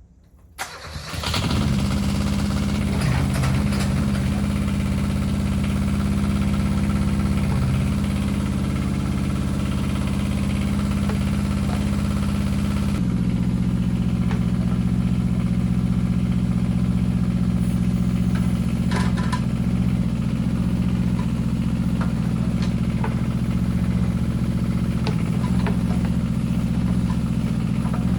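Kubota KH-007 mini excavator's diesel engine starting, catching within about a second and then running steadily. Its note changes abruptly about halfway through.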